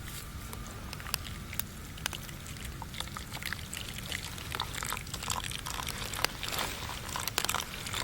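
Hot water poured from a steel canteen cup, trickling and splashing with many small irregular ticks.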